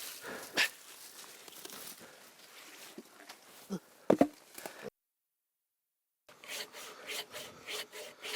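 Wood knocking and rustling as logs are handled, a brief cut to silence, then a hand saw cutting through a log in steady back-and-forth strokes, about three a second.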